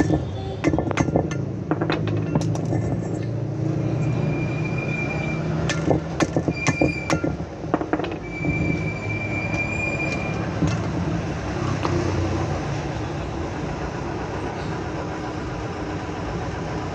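Metal clinks and knocks from hand tools and wheel-hub parts being handled, with three short high-pitched metallic squeaks between about four and ten seconds in, over a steady low hum.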